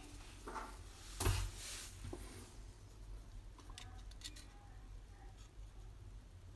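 Scattered light clicks and handling noises, with one louder knock about a second in, over a low steady hum.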